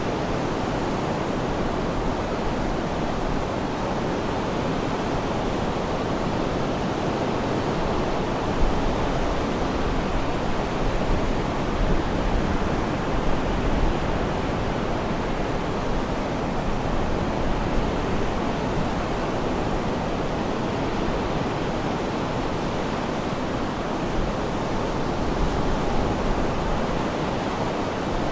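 Sea surf: a steady, even wash of breaking waves with no distinct pauses between them.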